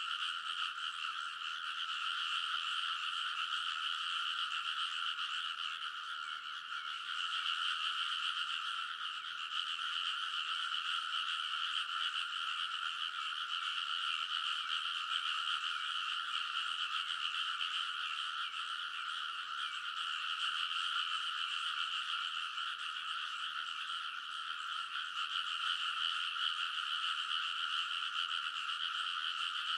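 A dense, unbroken chorus of many rice-paddy frogs calling at once. Their overlapping croaks merge into a steady, two-pitched drone.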